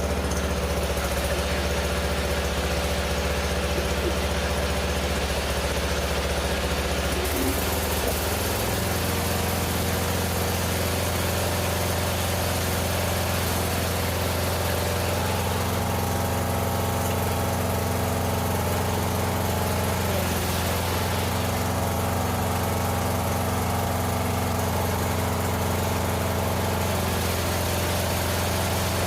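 1997 Mastercraft 12.5 hp lawn tractor's Briggs & Stratton engine running steadily, its note shifting once about seven or eight seconds in.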